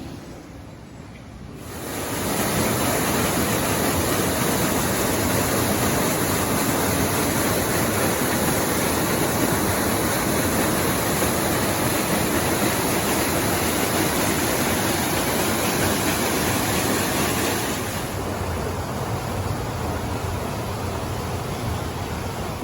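Wind rushing over the microphone of a camera carried on a moving bicycle: a loud steady rush that comes in suddenly about two seconds in and eases somewhat near the end.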